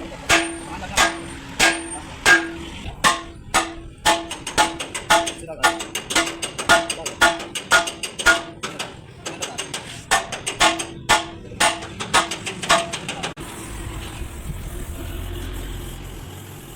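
Hammer striking steel again and again, each blow ringing with the same metallic tone. The blows come about one and a half a second at first, then in quicker irregular runs. They stop about three-quarters of the way in, leaving a steady low rumble.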